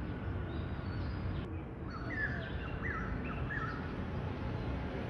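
A bird chirping a short run of four or five quick notes about two seconds in, over a steady low outdoor background rumble.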